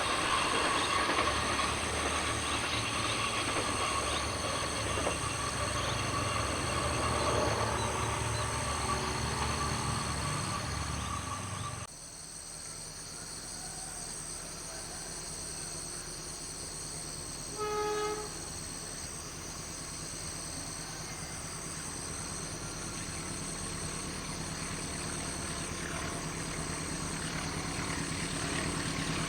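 Diesel locomotives running light, with loud engine and wheel noise that cuts off abruptly about twelve seconds in. A quieter, steady engine hum follows, with one short horn blast near the middle.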